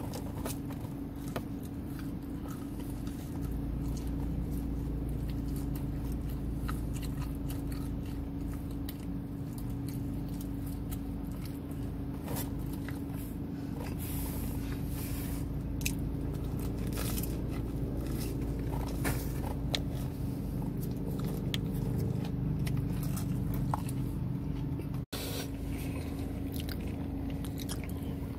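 Close-up chewing and biting of pizza, with small crunches and wet mouth clicks, over a steady low hum inside a car.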